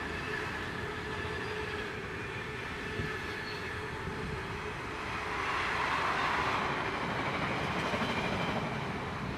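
Container freight train rolling past, with steady rail and wheel noise that swells for a couple of seconds about halfway through.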